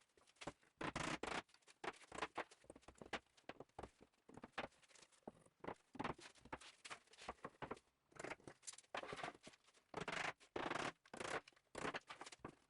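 Plywood parts being handled and rubbed together in a test fit: a faint, irregular run of short scraping and rubbing strokes with brief pauses.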